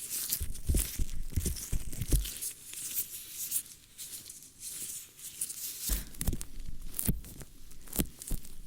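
Close-miked ASMR ear-cleaning sounds: irregular scratching and crackling rubs against a microphone ear, with a few soft low thumps.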